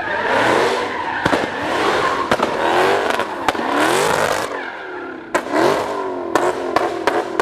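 A car engine revving hard, its pitch rising and falling over and over, with tyre squeal and scattered sharp cracks.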